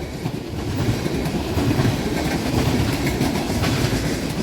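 Loaded freight cars of a garbage train rolling past, with a steady rumble of wheels on rail and a few faint clacks near the end.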